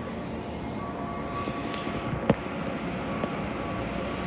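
Keikyu 1500-series electric train standing at a platform, with the steady hum of its onboard equipment and faint steady tones. A single sharp clack comes about two seconds in.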